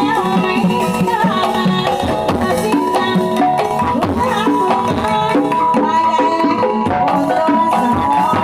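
Instrumental Javanese folk music with hand-drum strokes under held melodic tones.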